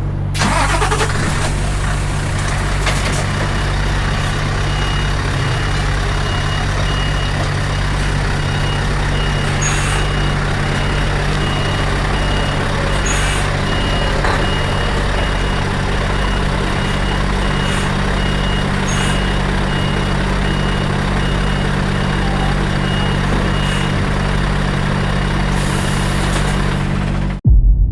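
Scania V8 truck engine running steadily as the lorry reverses, with its reversing alarm beeping in an even repeating pattern. A few short hisses of air sound over it, and the sound cuts off abruptly near the end.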